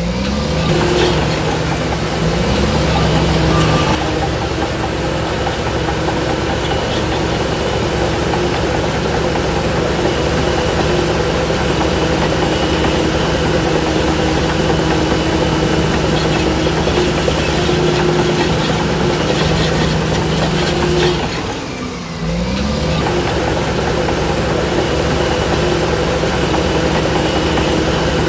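Heavy diesel engine of earthmoving machinery, most likely the bulldozer, running steadily under load. It briefly drops just at the start and again about 22 seconds in, then rises in pitch as it picks back up.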